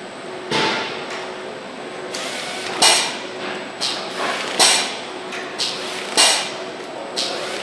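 Engine-plant assembly machinery: a steady hum with a series of sharp knocks at irregular intervals of about a second, some louder than others.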